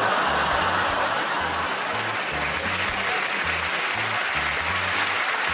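Studio audience applause over background music with a repeating bass line.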